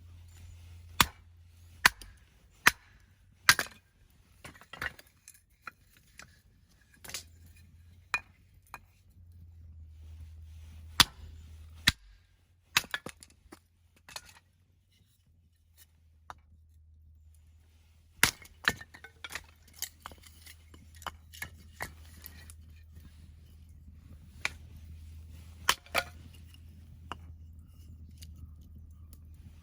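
Axe splitting firewood: a long run of sharp strikes at irregular intervals, some in quick pairs, with the crack and clatter of split pieces. A steady low hum runs underneath.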